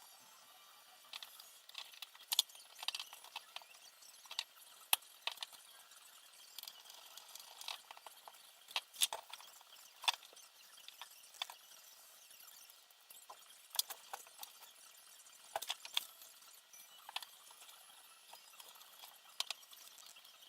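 Irregular light clicks, taps and clinks of small hard parts being handled, spaced unevenly, some sharper than others.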